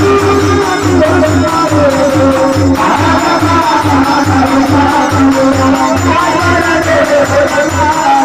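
Devotional folk bhajan: a voice singing over a steady hand-drum beat, about three beats a second, with jingling tambourine-like percussion.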